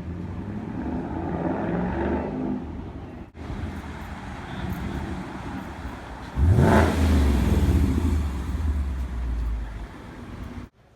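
Ford Mustang 5.0 V8 through a Roush axle-back exhaust, running and then revving hard about six seconds in, its pitch climbing. The sound cuts off abruptly twice, once about three seconds in and again at the end.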